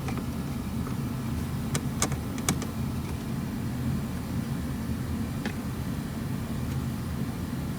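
Steady low machine hum, with a few sharp clicks about two seconds in from screws and a screwdriver being handled as the heater core box is unscrewed.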